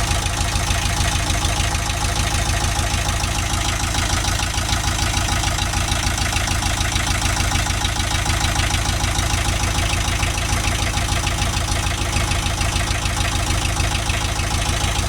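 Perkins Prima diesel engine in a boom lift, its turbo removed, idling steadily with fast, even firing pulses.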